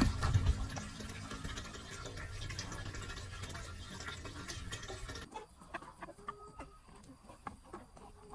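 A steady noisy background with a low hum, cut off suddenly about five seconds in. After the cut come chickens clucking softly, with scattered clicks and pecking sounds.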